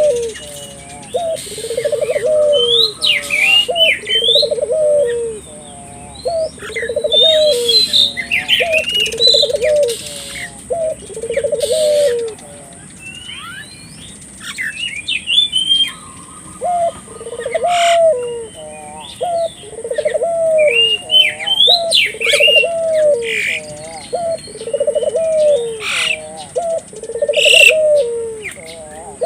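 Ringneck (Barbary) dove, the Indonesian burung puter, cooing over and over, about one coo every second and a half, with a pause of about four seconds near the middle. Smaller birds chirp in quick higher notes throughout.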